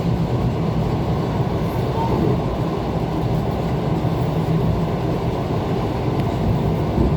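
ET2 electric multiple-unit train running along the track between stations: a steady rumble from the wheels and running gear, with a constant low hum.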